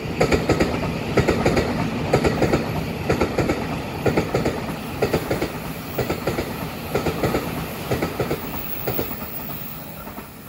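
Taiwan Railway EMU900 electric multiple unit passing on a local service: the wheels clickety-clack over the rail joints in groups of two or three beats about once a second, over a steady rumble. The train fades as it pulls away.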